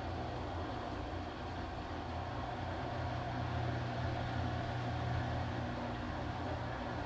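Washing machine running with a steady low hum and an even whirring noise, swelling slightly louder in the middle before settling back.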